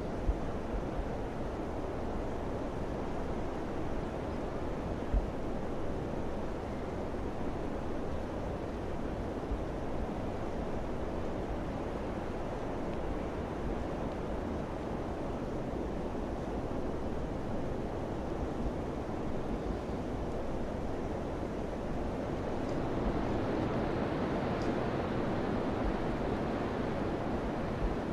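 Summer wind rushing steadily, swelling louder for a few seconds near the end.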